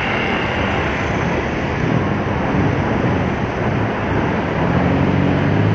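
Street traffic noise: a steady rush of vehicles, with a low engine hum growing near the end.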